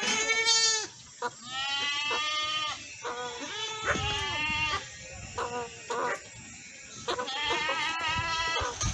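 Bleating from a goat or sheep: a series of about five high, quavering bleats with short pauses between them.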